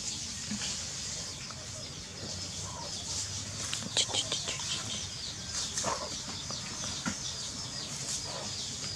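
Background birds chirping: many quick, high chirps, with a few light taps about four, six and seven seconds in.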